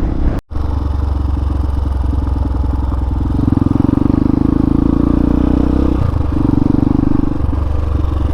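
Hawk 250 dual-sport's single-cylinder engine running under way, heard from on the bike with wind noise. It gets louder about three seconds in, then eases off around six seconds and again near seven and a half as the throttle changes. The sound drops out briefly about half a second in.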